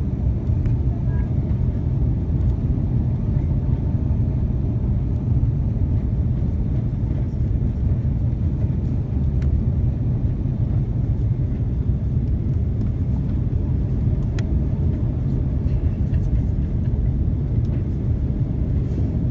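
Steady low rumble of cabin noise inside an Airbus A350-900 airliner during its landing, even in level throughout.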